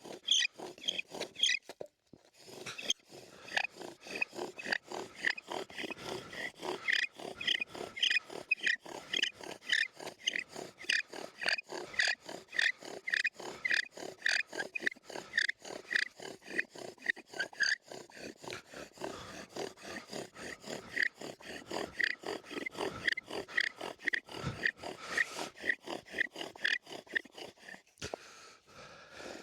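Bow drill being worked fast: the wooden spindle grinds and squeaks against the hearth board on each rapid back-and-forth stroke of the bow, pausing briefly about two seconds in and again near the end. The friction is building heat to make an ember.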